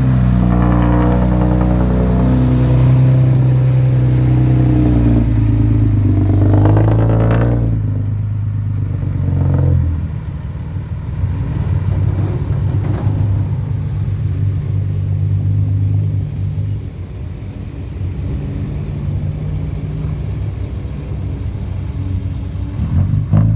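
Six-wheel truck's engine running hard and revving for about the first eight seconds, then settling to a lower, quieter run, typical of a loaded truck working on slippery mud.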